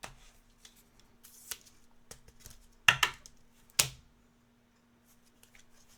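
Basketball trading cards being handled and flipped one by one, giving a few sharp clicks and snaps, the loudest two about three and four seconds in, with light ticking between them.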